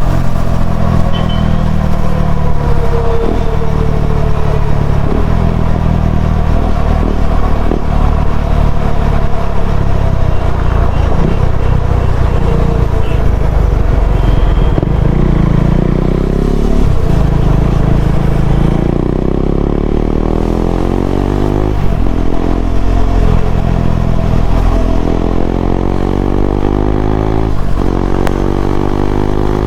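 KTM Duke 390's single-cylinder engine running through an Akrapovic slip-on exhaust on the move. The note falls in pitch over the first few seconds as the bike slows. From about two-thirds of the way through it climbs in pitch again and again as the bike accelerates up through the gears.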